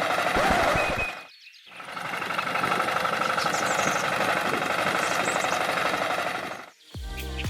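Small engine running with a rough, knocking rattle. It cuts out for about half a second around one second in, then runs again until it stops near the end, when music begins.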